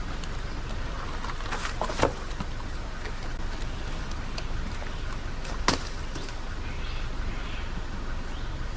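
Vehicle engine idling with a steady low rumble, and two sharp knocks about two seconds and five and a half seconds in.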